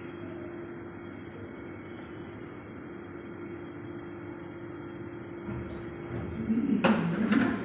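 Airport people-mover train moving slowly alongside the platform and coming to a stop: a steady hum with a low tone. It grows louder near the end, with two sharp clacks.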